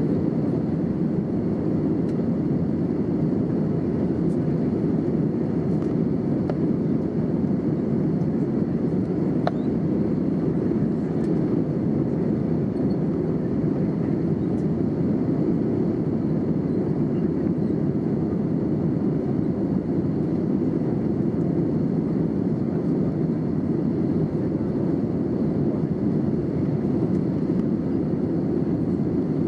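Steady cabin noise of an Airbus A320neo in flight: a constant low rushing drone of airflow and engines that does not change.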